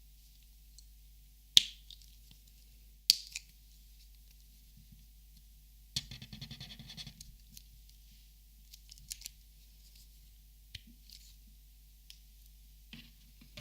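Copic markers being handled: two sharp plastic clicks a second and a half apart, then a short rattle of quick little ticks as the markers knock together, and a few light scattered ticks.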